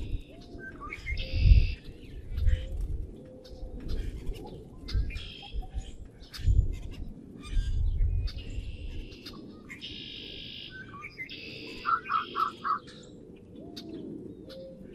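Small wild songbirds chirping and singing, with several short trilled phrases repeating through the clip and a quick run of four lower notes near the end. Low thumps or rumbles come and go in the first half.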